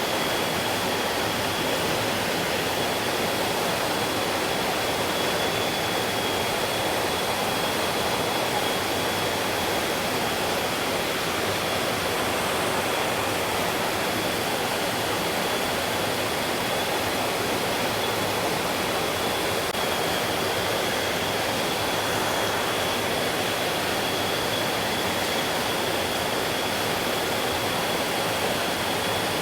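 Stream water rushing in an even, unbroken flow, with a thin steady high-pitched tone running alongside it.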